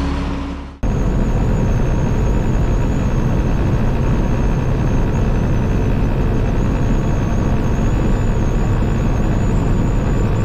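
Peterbilt 389 semi truck's diesel engine running steadily with a low rumble and a faint high whine, after a brief drop in sound about a second in.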